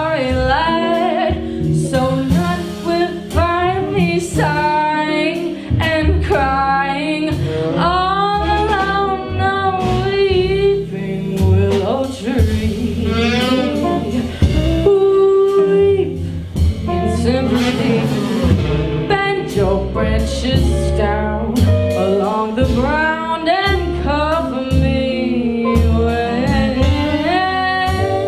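Jazz performance: a female voice sings a wavering melodic line over band accompaniment with a steady low bass part.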